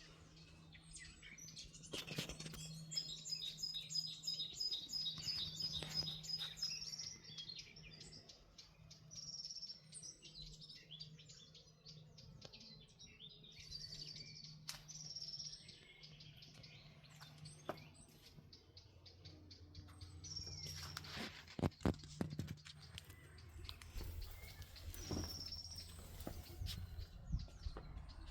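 Small songbirds chirping and singing, with a rapid repeated trill a few seconds in and scattered short tweets after it. A few sharp clicks come about two-thirds of the way through.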